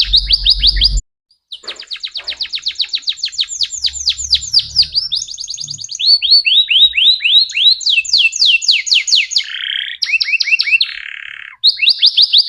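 Canary in full song: loud, rapid trills of repeated downward-sweeping notes, switching to a new trill every second or so, with brief pauses about a second in and near the end.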